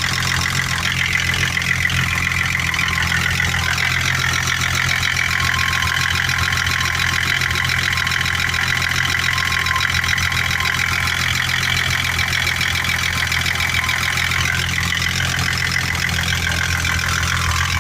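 M20 engine idling steadily with a rapid, even knock running through it: the knock the engine is being recorded for.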